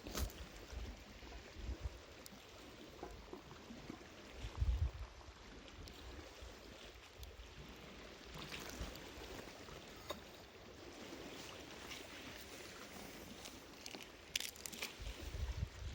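Small sea waves washing on the shore, a steady watery hiss, with scattered light clicks and a few dull low thumps, the loudest about four and a half seconds in and near the end.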